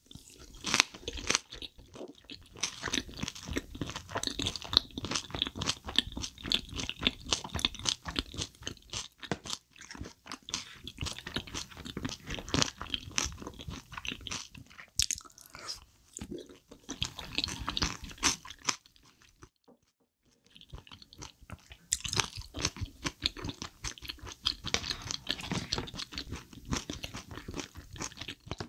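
Close-miked chewing of spicy chicken-feet stew and steamed egg, a dense run of wet mouth clicks that stops for about two seconds a little past the middle.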